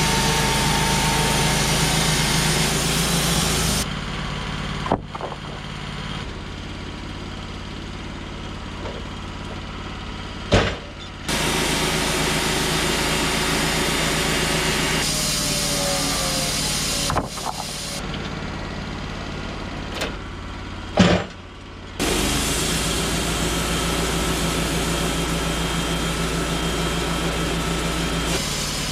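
An engine running steadily, in stretches that switch abruptly between louder and quieter, with a few sharp knocks.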